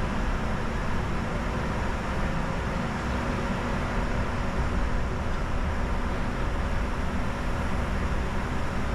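Steady flight-deck noise of a Bombardier Challenger 605 jet in descent: an even rush of airflow with a low hum and faint steady tones underneath, unchanging throughout.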